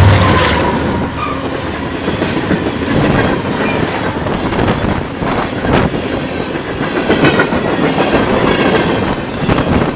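Freight cars of a CN train rolling past at speed, wheels clacking and banging over the rail joints in an irregular rhythm. A deep engine rumble from the locomotives fades out in the first half second.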